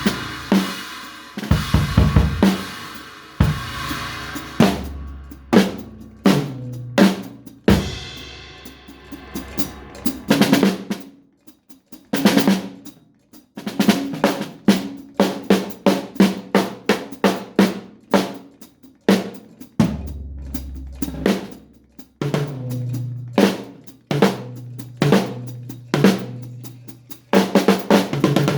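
Drum kit played freely: snare and bass drum hits in quick, irregular patterns with rolls, and a cymbal washing out about eight seconds in. There is a brief break a little before the middle, then the playing resumes.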